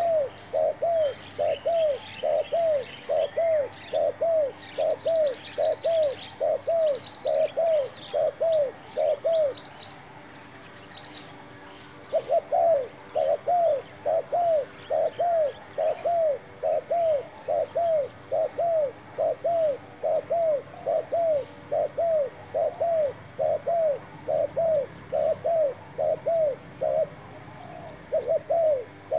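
Spotted dove cooing in a rapid, even series of short arched coos, about two a second, breaking off about ten seconds in and starting again near twelve seconds. Small birds chirp high and thin over the first half.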